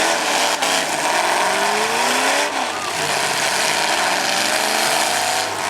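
Demolition derby vehicle engines revving, their pitch repeatedly rising and falling over a loud, rough exhaust noise.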